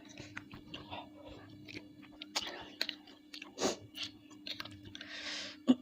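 Close-miked chewing of bakso meatballs and noodles: wet mouth clicks and smacks, with a short breathy rush of noise near the end.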